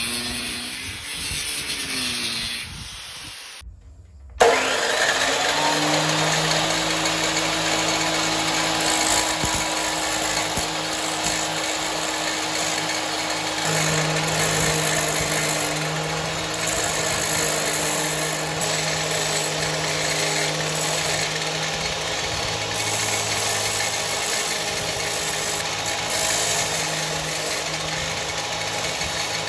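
Electric power tool running steadily, likely working the steel sprocket. The sound breaks off briefly about four seconds in and starts again at once, then runs on evenly with a low steady hum under a noisy hiss.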